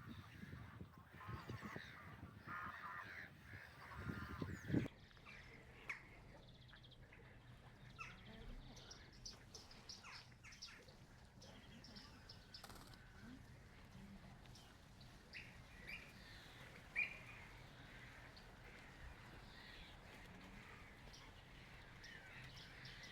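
Geese honking for the first few seconds, then scattered short bird calls, all faint.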